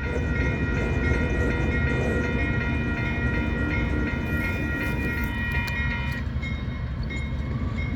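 Train passing at close range with a steady low rumble. Several steady high-pitched tones ring over it and stop about six seconds in.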